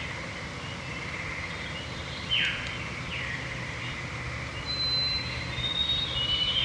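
Songbirds singing at dusk over a steady trill: two downward-sweeping song phrases come a few seconds in, and a run of high, pure, held whistles stepping lower comes near the end.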